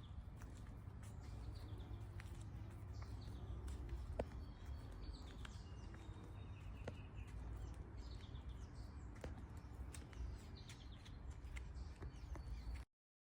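Birds chirping and twittering over a constant low rumble, with a few scattered sharp clicks. The sound cuts off abruptly near the end.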